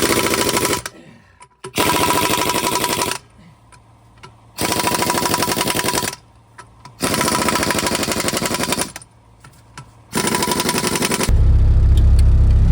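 Impact wrench hammering in five bursts of one to two seconds each, with short pauses between them, as on wheel or hub nuts. Near the end a steady low engine rumble comes in.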